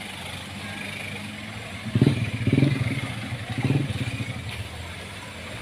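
Off-road 4x4 vehicle's engine running on a muddy trail, revving up three times in quick succession about two seconds in, then settling back to a steady drone.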